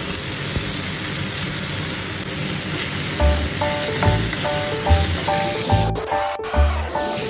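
Kaudi and onions sizzling steadily in a hot frying pan as they are stir-fried. Background music with a beat comes in about three seconds in.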